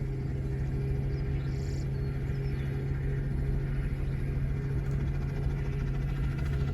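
An engine running steadily with an even, unchanging low hum.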